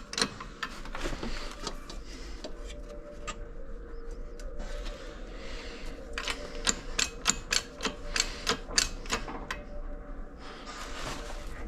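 Rapid, irregular clicking and ticking as a shop press is worked to straighten a bent dirt-bike radiator, thickest in the second half. A faint steady hum comes in a couple of seconds in.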